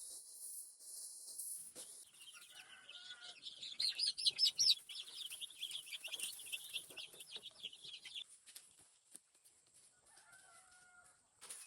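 Chickens calling: a dense run of rapid, high calls from about two seconds in, loudest around the middle and fading out near eight seconds, with a few lower clucks later on.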